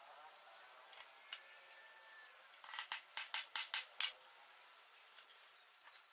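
A quick run of about seven light, sharp clicks or taps lasting about a second and a half, a little before the middle, over a faint steady hiss.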